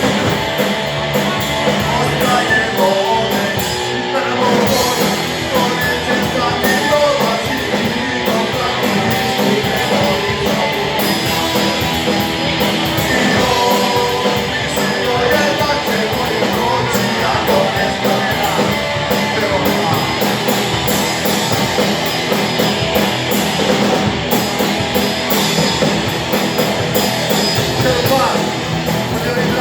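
Live rock band playing, with electric guitars, drums and some singing, loud and steady.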